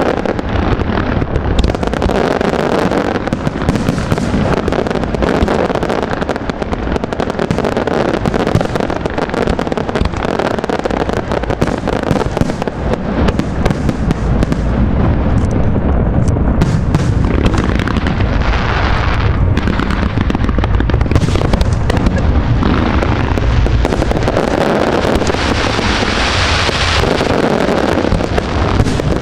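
Aerial fireworks display: a dense, unbroken barrage of shell bursts and crackle over a heavy low rumble.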